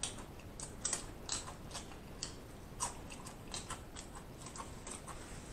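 A person chewing crispy fried food: irregular soft crunches and wet mouth clicks, a few a second.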